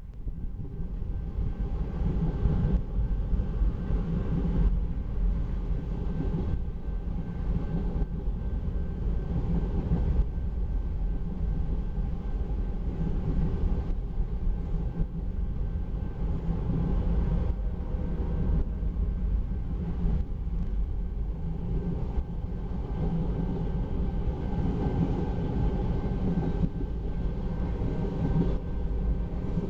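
Empty railroad tank cars of a freight train rolling past: a steady rumble of steel wheels on the rails.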